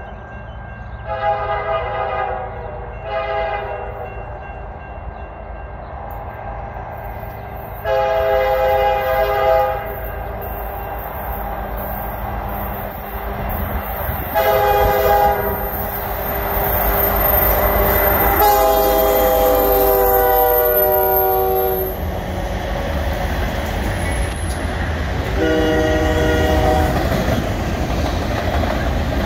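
EMD SD75I diesel-electric locomotive approaching and passing, sounding its multi-note air horn six times, with two long blasts near the middle, over the low rumble of its diesel engine. Near the end the auto-rack freight cars roll by with wheels clattering over the rail joints.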